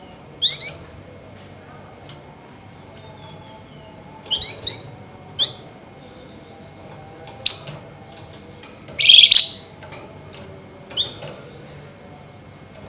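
Flamboyan songbird giving short bursts of sharp, high chirps separated by pauses of a second or more, with one dense, rapid scratchy chatter (nyerecet) about nine seconds in.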